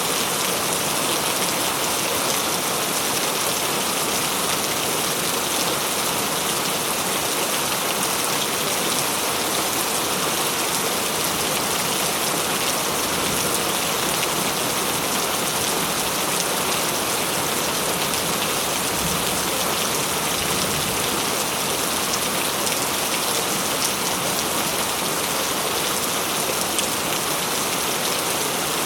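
Steady heavy rain falling on surfaces, a constant dense patter of drops with no thunder.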